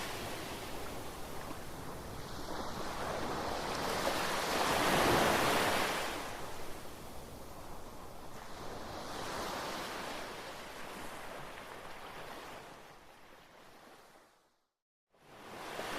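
Ocean surf washing in and drawing back, swelling roughly every four to five seconds. Near the end it fades out to a brief moment of complete silence, then builds again.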